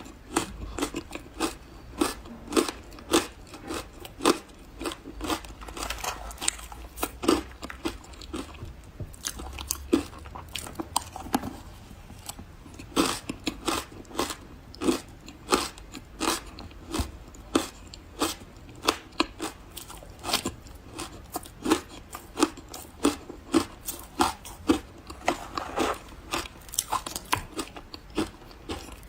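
Close-miked chewing of refrozen powdery ice: soft, crisp crunches in quick runs, with a short pause about nine seconds in.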